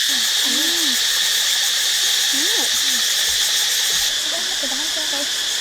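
Steady chorus of forest insects, a dense high-pitched buzzing that eases slightly about four seconds in, with faint voices low underneath.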